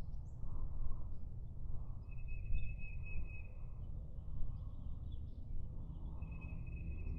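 Two long, steady, high whistled bird notes, each nearly two seconds, over a constant low rumble of woodland ambience.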